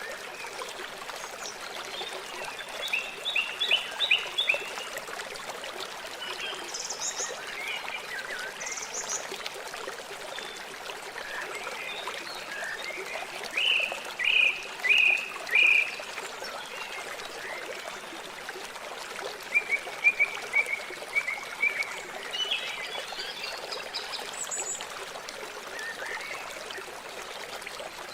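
River water flowing steadily. Over it, birds call in short runs of quick repeated notes three times, the loudest run about halfway through.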